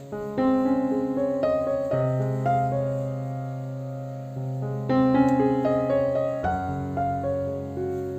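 Background piano music: gentle chords and a melody line over sustained bass notes.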